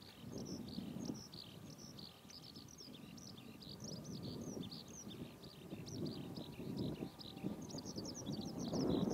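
Small birds chirping busily, a steady stream of short high calls, over a low rumbling background that grows louder near the end.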